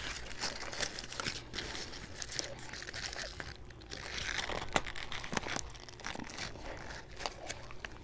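Close-up eating sounds of someone biting and chewing a deli hero sandwich: a run of short, sharp clicks and smacks, busiest about four to five seconds in.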